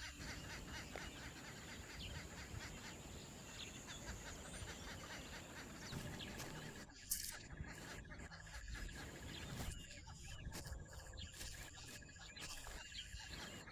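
Faint natural outdoor ambience: a steady high insect trill throughout, a second, lower pulsing trill joining about six seconds in, and scattered short bird chirps, with one brief sharp sound about seven seconds in.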